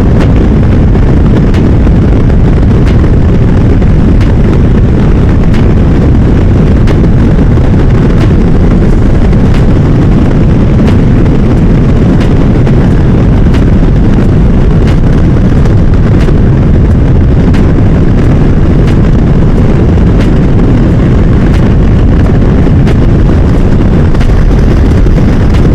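Loud, steady wind buffeting on the rider's microphone over a KTM 390 Adventure's single-cylinder engine running at highway speed.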